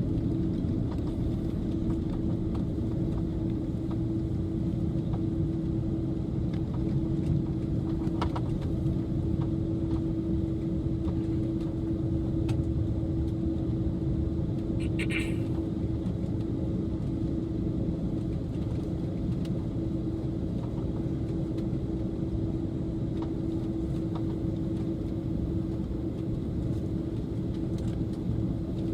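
Airbus A330 cabin noise on the ground before takeoff: a steady low rumble from the idling jet engines and cabin air, with a constant hum running through it. A short click sounds about halfway through.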